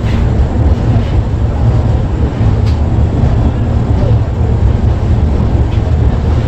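Indian Railways express passenger coach running along a station platform: a steady low rumble of wheels and running gear.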